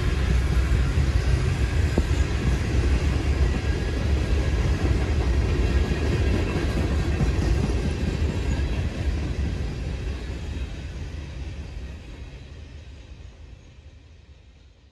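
Freight train rolling by: the steady low rumble and rail noise of its cars. It fades out gradually over the last several seconds.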